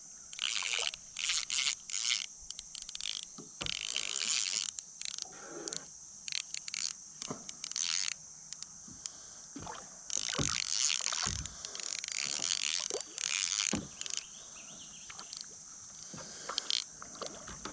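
Fishing reel being cranked with irregular bursts of splashing and handling noise as a fish is fought and brought in, over a steady high hiss.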